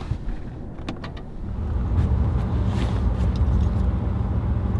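A few light clicks, then the low, steady drone of a Toyota 4Runner's V6 engine and cabin noise rising about a second and a half in as the SUV pulls away.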